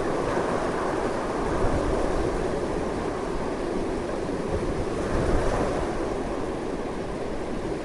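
Strong, continuous wind rushing, with a deep rumble and slow swells in strength.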